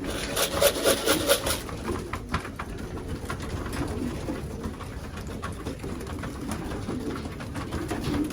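Racing pigeons cooing continuously, with a brief rustling patch about half a second to a second and a half in and scattered short clicks.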